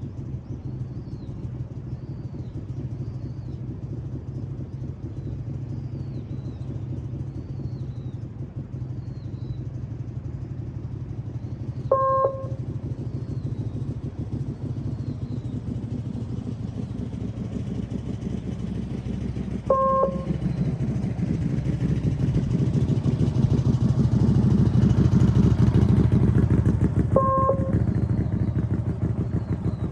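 Motorcycle engine running at low speed, getting louder from about twenty seconds in as it picks up. Three short beeps sound several seconds apart, and a bird chirps over and over in the first half.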